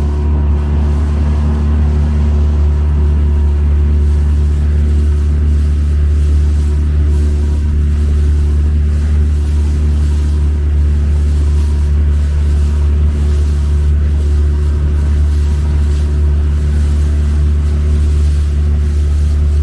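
Small motorboat's engine running steadily at constant cruising speed, a loud, even low drone.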